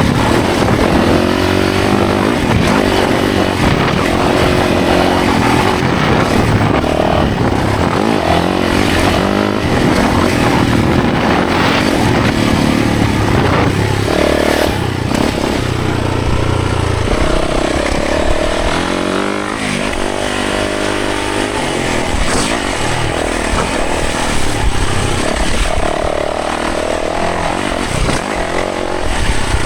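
Yamaha 450 dirt bike's single-cylinder four-stroke engine being ridden hard on a trail, revving up and down repeatedly as the throttle opens and closes.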